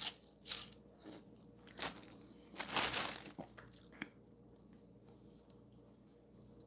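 Close-up crunchy bites and chewing of watermelon rind: a run of short crunches over the first three seconds, the longest and loudest about two and a half to three seconds in, then one sharp click about four seconds in.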